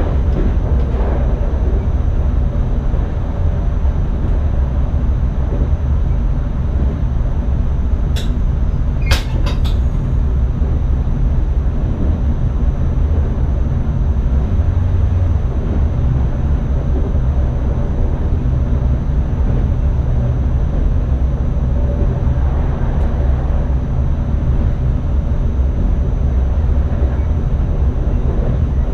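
Cab interior of an NS ICM (Koploper) electric multiple unit running along the track: a steady, heavy low rumble of wheels and running gear, with a thin, steady high whine over it. A few sharp clicks come about eight to ten seconds in.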